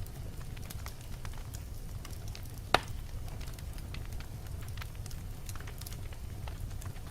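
Wood fire crackling in a fireplace: a low steady rumble of flames under many small scattered pops, with one sharp, louder pop a little under three seconds in.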